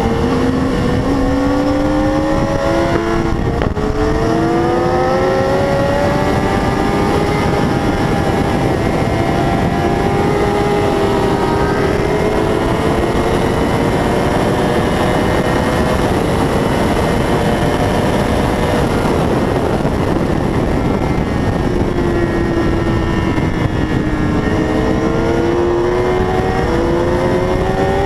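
600 cc racing motorcycle engine at high revs over heavy wind rush. Its pitch climbs with an upshift about three and a half seconds in, sags briefly about twenty seconds in, and climbs again near the end.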